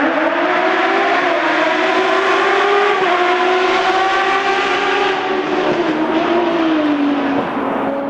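Car engine running hard under revs, its pitch rising and falling slowly several times.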